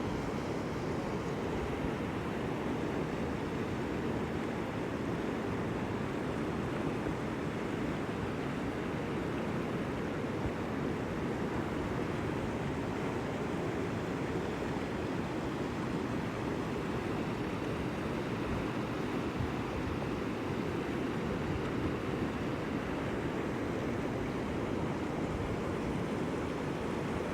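Water rushing steadily, an even noise with no rise and fall of separate waves.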